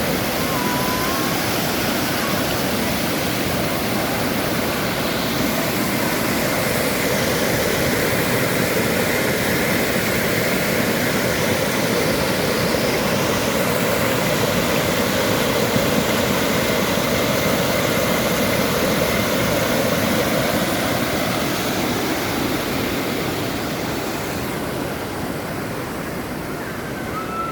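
Waterfall: a steady, loud rush of falling water, easing slightly near the end.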